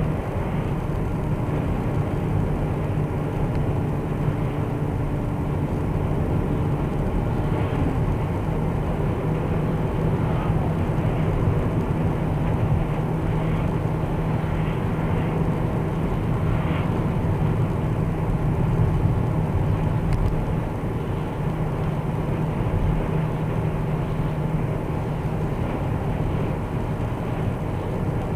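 Interior driving noise of an Opel Astra H with the windows shut: a steady droning hum with a constant low tone runs throughout over the road noise. The owner cannot place this hum and says it is separate from the engine's sound.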